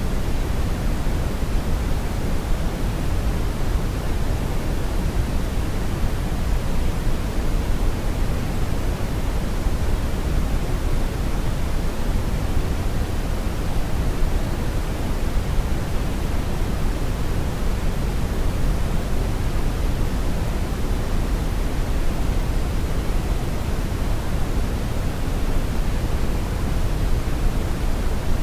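Steady brown noise: an even, unchanging rushing hiss weighted heavily toward the low end, deep and rumbling with little treble.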